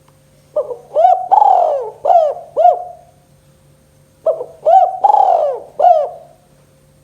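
Spotted dove (tekukur) cooing its song, two phrases of about four arching coo notes each, separated by a pause of about a second.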